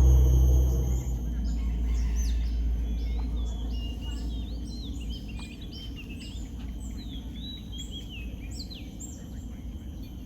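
Many birds calling together: a busy chorus of short high chirps and quick falling whistles, overlapping, beginning about a second and a half in. A low rumble underneath dies away within the first second.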